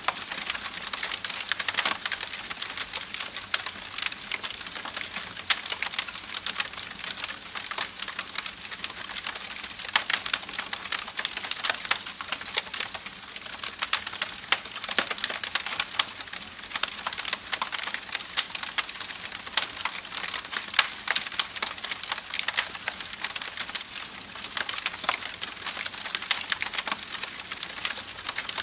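Campfire crackling, with many small irregular pops and snaps over a steady hiss of rushing creek water.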